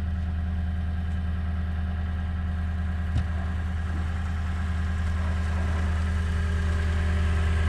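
Truck engine idling steadily with an even low hum, and one brief click about three seconds in.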